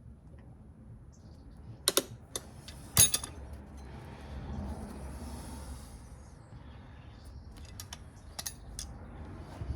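Hand tools clicking and knocking on engine metal while the water pump is being unbolted from a Mazda MX-5 mk1 engine: a few sharp, separate clicks, the loudest about three seconds in, and a few lighter ones near the end.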